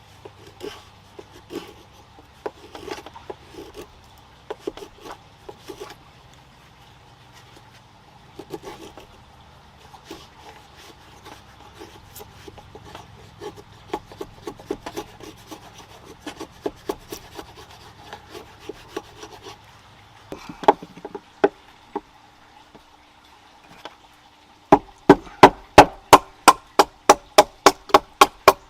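Firewood being handled to set a campfire: pieces of wood rubbing, scraping and knocking together in scattered bursts, then a quick run of sharp knocks, about four a second, near the end.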